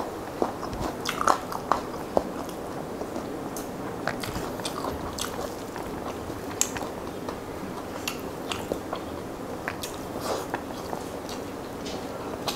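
Close-miked chewing and mouth sounds of someone eating rice and curry, with many short, wet clicks, thickest in the first two seconds and again near the end.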